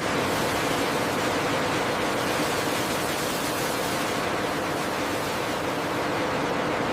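Steady factory machinery noise: an even rushing hiss at a constant level with a faint hum underneath.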